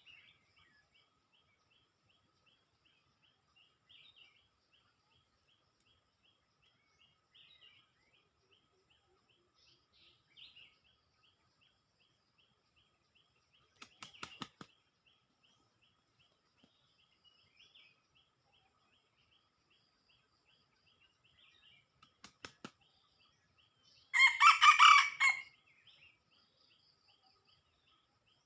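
A rooster crows once near the end, loud and lasting about a second and a half, over a faint, steady chirping that repeats about four times a second. Two short clicks or rustles come in the middle.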